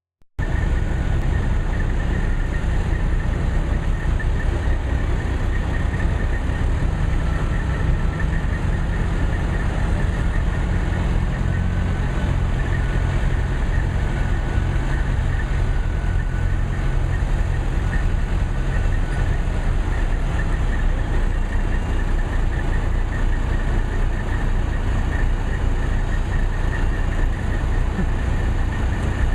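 A tractor engine idling steadily, cutting in abruptly at the start, with a deep rumble and a faint steady high whine over it.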